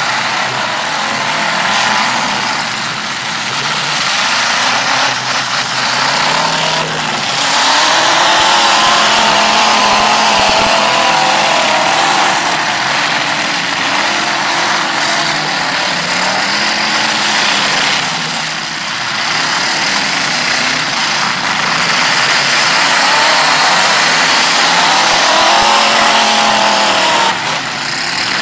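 Demolition derby cars' engines revving hard together on a dirt track, their pitches rising and falling, loud throughout.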